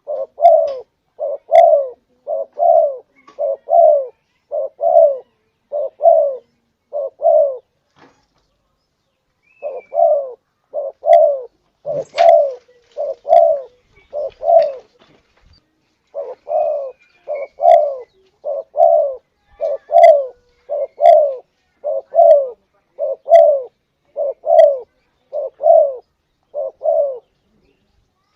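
Spotted dove cooing: a long series of evenly spaced low coo notes, a little under two a second, broken by two short pauses. Faint higher chirps sound now and then.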